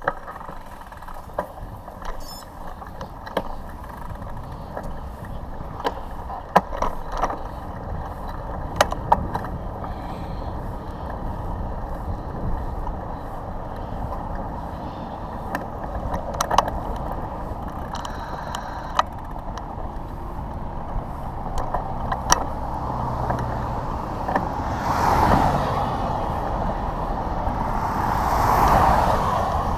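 Wind rumbling on the microphone over road traffic, with scattered clicks; vehicles swell past twice near the end.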